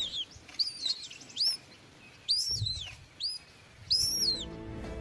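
A small bird giving a series of sharp, high chirps, each falling in pitch, about one a second.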